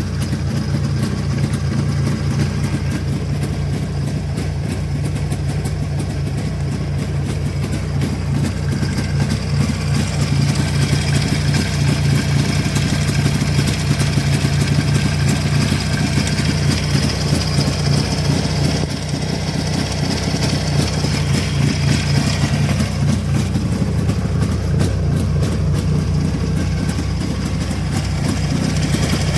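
Jawa 638.5 motorcycle's 350 cc two-stroke twin idling steadily, warmed up to working temperature with its carburettor freshly adjusted. It is a nearly new engine with about 4,500 km on it, and it runs quietly with only a light rustle.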